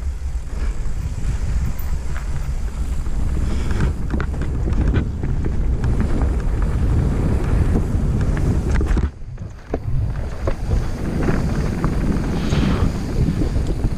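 Mountain bike descending a rough, rattly trail: wind rushing over the microphone with a constant clatter and knocks from the bike over rocks and roots. The noise drops away briefly about nine seconds in, then picks up again.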